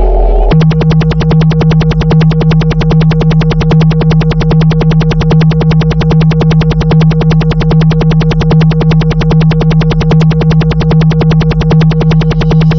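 Loud electronic synthesizer music: a steady low synth tone pulsing rapidly and evenly, starting suddenly about half a second in.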